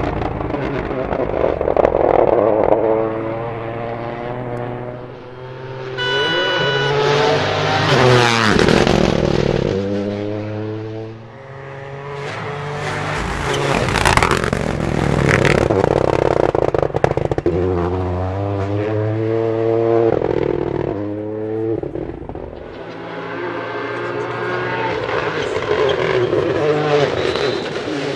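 Toyota GR Yaris Rally2's turbocharged 1.6-litre three-cylinder engine at full throttle on a rally stage. Its pitch climbs and drops several times with the gear changes, with a few sharp cracks along the way.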